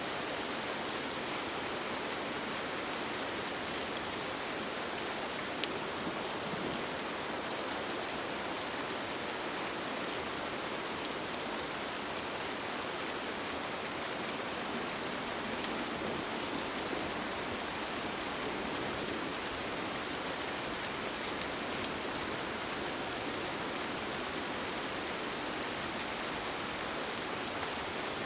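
Steady, even rain with a dense scatter of small drop hits.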